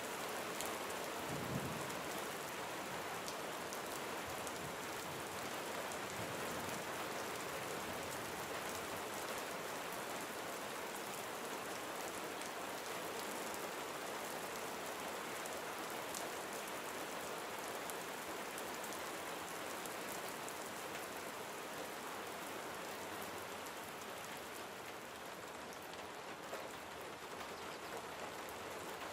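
Gentle rain falling steadily on surfaces: an even hiss with scattered fine drop ticks. There is a brief low thump about a second and a half in.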